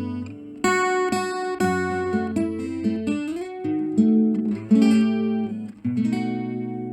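Acoustic guitar played through a Fender Acoustasonic 15-watt acoustic amp: a run of picked and strummed chords with a slide up in pitch around the middle, ending on a chord that rings out and fades.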